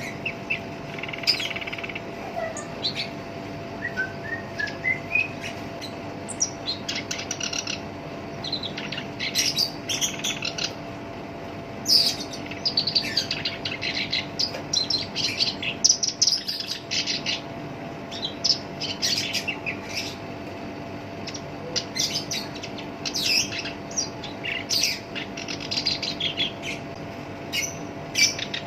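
Black-browed reed warbler singing a harsh, rapid, chattering song in phrases of a few seconds, separated by short pauses.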